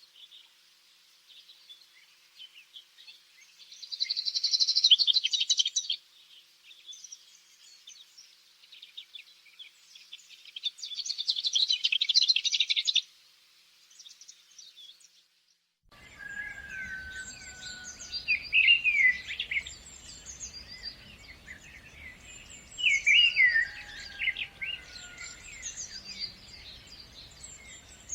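Songbirds chirping and singing, with two loud rapid trills of about two seconds each in the first half. About halfway through, the soundscape switches abruptly to a different recording with a low background rumble and slurred whistled phrases repeating every few seconds.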